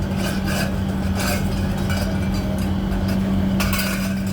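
A workshop machine running with a steady hum, with irregular scraping and rubbing strokes of a tool on metal over it, the strongest near the end.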